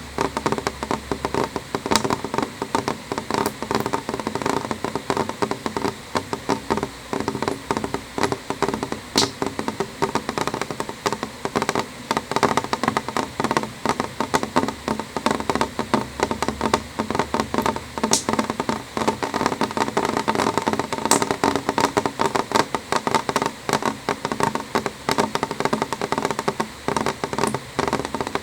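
Rain falling on a window pane: a dense, steady stream of drop taps on the glass, with a few sharper clicks now and then.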